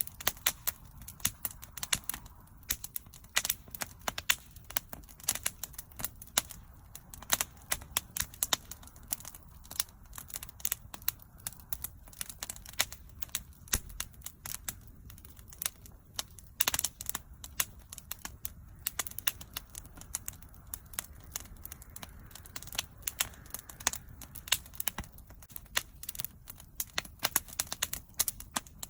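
Wood bonfire burning, with dense irregular crackles and pops over a low steady rumble of the flames.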